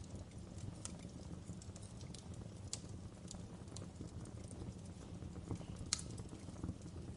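Fire in a fireplace crackling: irregular sharp pops and snaps over a steady low rumble of the flames, the loudest pop about six seconds in.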